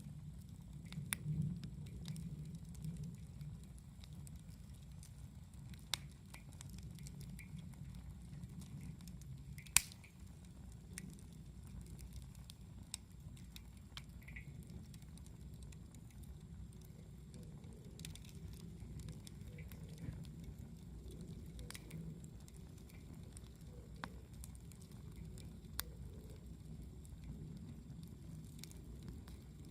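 Wood campfire crackling faintly: sparse sharp pops over a low steady rumble, the loudest pop about ten seconds in.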